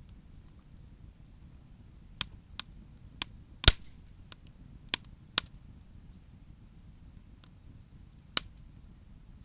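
Wood fire crackling: a scatter of about eight sharp pops from burning wood, bunched in the first half with the loudest near the middle of them and one more near the end, over a low steady background.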